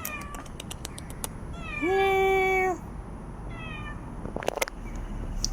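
Domestic cat meowing: one long, steady-pitched meow about two seconds in, then a short, fainter one, with a few sharp clicks around them.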